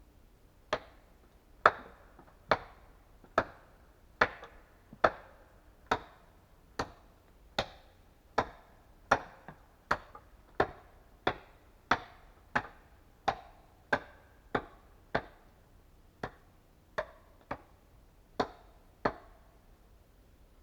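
A hand tool striking wood over and over in a steady rhythm: about two dozen sharp knocks, a little more than one a second, with a few lighter taps mixed in.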